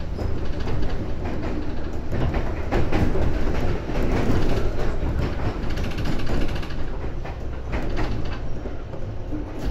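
Running sound of a 415-series electric multiple unit: a steady rumble of the moving train with repeated, uneven clacks of the wheels over rail joints.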